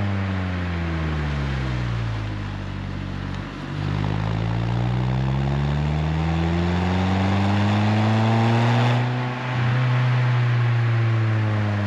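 Renault Twingo RS Gordini's four-cylinder engine through an Inoxcar 80 mm stainless steel exhaust, driven on the road. The revs drop off, then climb steadily under acceleration for several seconds, with two short breaks as the gears change, and then hold.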